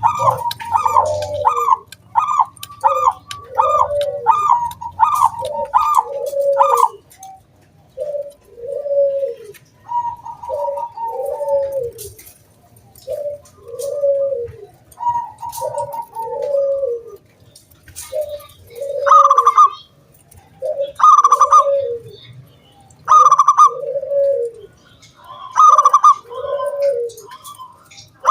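Zebra dove (perkutut) cooing song: a rapid run of short, crisp coo notes, then slower, rounded coos about one a second, with louder, higher notes breaking in every couple of seconds in the second half.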